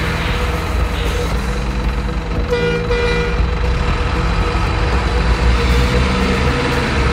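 Truck engine running steadily with a low rumble, with two short horn toots about two and a half seconds in.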